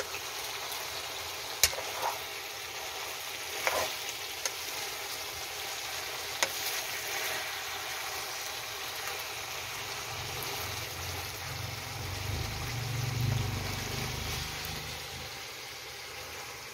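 Chicken adobo sizzling in a wok over a wood fire: a steady frying hiss with a few sharp pops in the first half. A low rumble swells for a few seconds past the middle.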